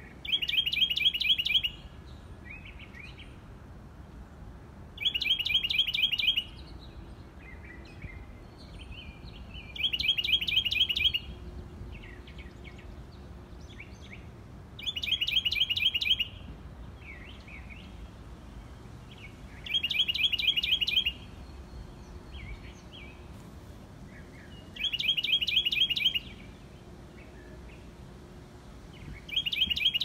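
A songbird repeats a fast, even trill of rapid notes, each song about a second and a half long, about every five seconds. Fainter short chirps from other birds come between the songs.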